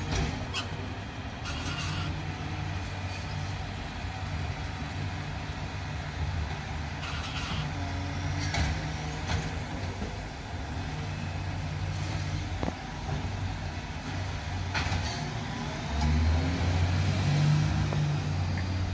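Refuse truck engine running steadily, growing louder near the end, with a few short sharp noises along the way.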